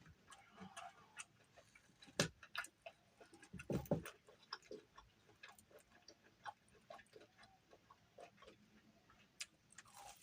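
A person chewing food close to the microphone: irregular soft mouth clicks and smacks, with two duller knocks about two and four seconds in.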